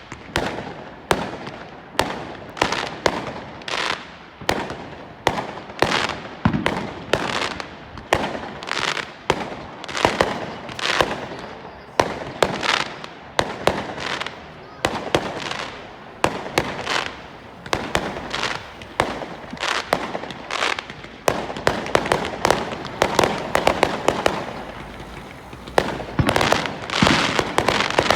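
Fireworks exploding one after another, sharp bangs about one to two a second, each trailing off briefly. Toward the end the bangs come faster and thicker, with more crackle.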